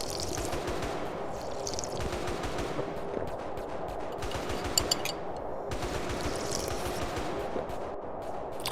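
Tea being slurped from a cup, a dense rapid crackle with a hissy sip coming back about every two seconds.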